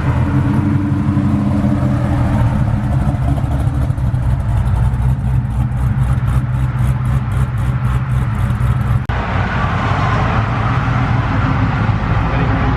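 Car engines idling steadily with a deep, even drone. A faint ticking runs at about four a second for a few seconds midway. About nine seconds in the sound cuts abruptly to a busier mix of engine and traffic noise.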